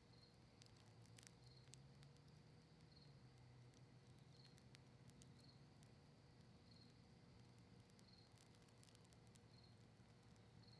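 Very faint campfire crackling: scattered small snaps and pops from burning maple wood and cedar leaves, with a single cricket chirping about every second and a half.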